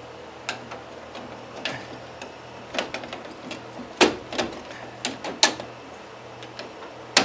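Irregular sharp metal clinks and knocks of a big screwdriver working against the steering gear of a John Deere 120 lawn tractor, several separate strikes, the loudest about four seconds in.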